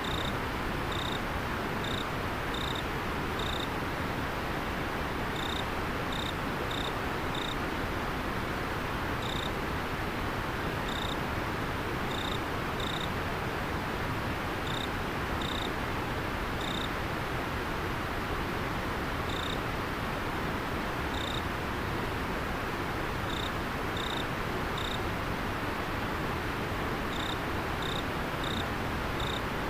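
Steady rush of a flowing river with a cricket chirping over it in short, high chirps, irregular and often in quick pairs or runs of three with gaps between.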